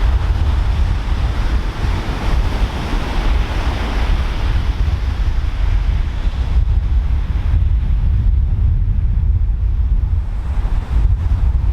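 Ocean surf breaking and washing in, under a constant heavy rumble of wind buffeting the microphone. A wave's hiss swells over the first few seconds, fades, and builds again near the end.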